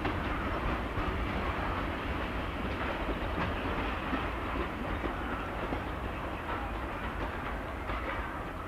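Steam-hauled train running away down the line, a steady rumble with faint clickety-clack from the rails, slowly fading as it draws off. Wind buffets the microphone.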